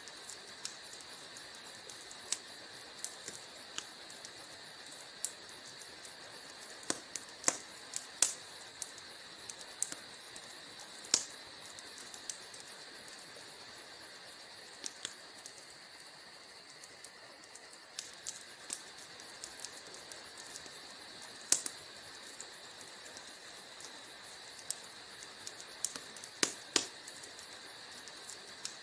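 Wood fire crackling in a fireplace: irregular sharp pops and snaps over a steady hiss, with a few louder pops standing out.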